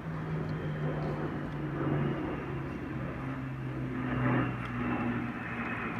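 Heritage Flight formation of an A-10 Warthog and a P-51 Mustang flying past: a steady engine drone under a high whine, both slowly dropping in pitch as the aircraft go by.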